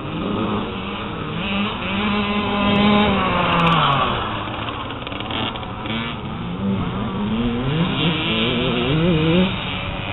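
Motocross bike engines revving, their pitch climbing and dropping again and again as the throttle opens and closes.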